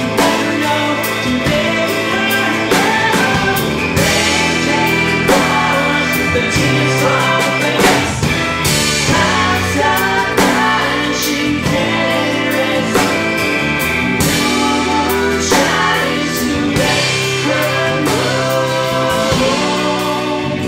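Live band playing a song: acoustic guitar, bass, drums and keyboards, with singing.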